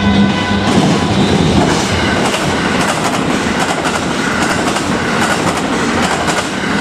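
Electric commuter train of the JR Hanwa Line passing close over a level crossing, its wheels clicking irregularly over the rail joints above a steady rumble.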